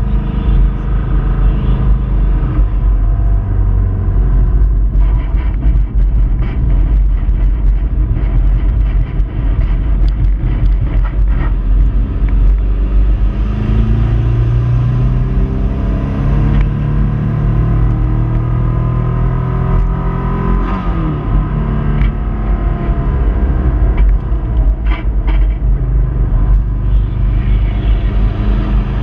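Subaru Impreza 2.5RS's flat-four engine running hard, heard from inside the car, its revs rising and falling through gear changes over a heavy rumble of wind and road. The engine is running with a failing rod bearing.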